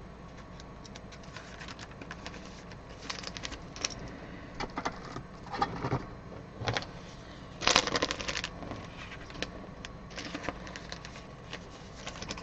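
Trading cards and plastic sleeves and case holders being handled: scattered light rustles and clicks, with the busiest stretch about eight seconds in.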